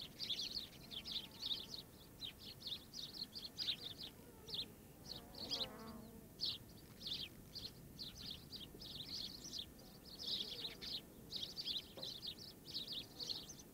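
Birds chirping: a dense run of short, high chirps, several a second, with a brief warbling call about five to six seconds in.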